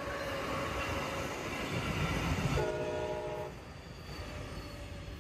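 Brightline passenger test train accelerating past, its running noise building, with one horn blast of about a second near the middle; the train's sound then fades.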